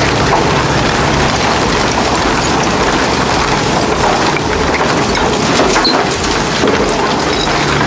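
Heavy shredding machinery running under load: a steady engine drone under dense cracking and crunching as material is broken up.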